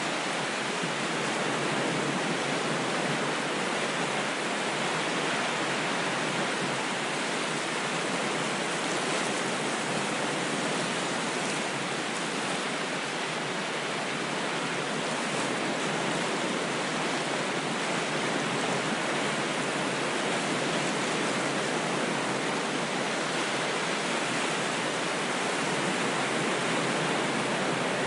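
Steady rushing water, an even unbroken wash with no distinct swells or breaking waves.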